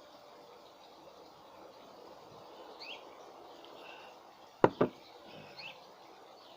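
Small birds chirping now and then over a steady outdoor background hiss, with two short, sharp sounds in quick succession a little past halfway.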